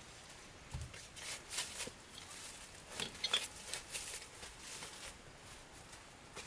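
Scattered rustling and crackling, densest in the middle seconds, with a couple of soft thumps.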